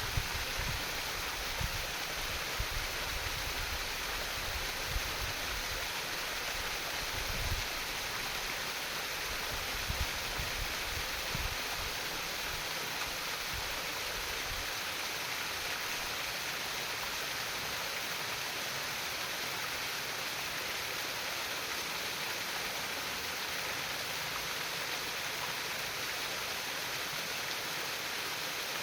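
Stream water trickling and babbling steadily. A few low thumps come through in the first dozen seconds.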